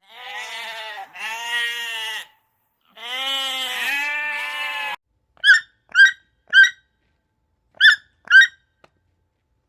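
Goat bleating: two calls back to back, then a longer third call. After that come five short, high chirps spaced about half a second apart.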